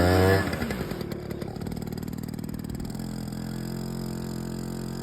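Small dirt bike engine revving up, then dropping off sharply about half a second in and settling into a steady idle.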